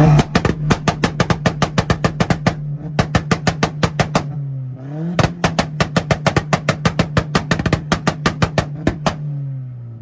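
Volkswagen engine held on a two-step launch limiter, its exhaust popping and banging about seven times a second over a steady held rev. The pops come in three runs, the last about four seconds long. Then the revs drop away near the end.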